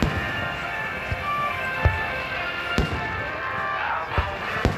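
Aerial firework shells bursting in a run of sharp booms, roughly one a second, with music playing steadily underneath.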